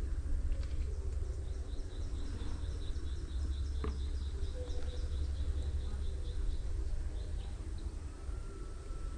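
A bird calling a fast run of short, repeated high chirps, about five a second, for several seconds, over a steady low rumble. A single sharp click comes about four seconds in.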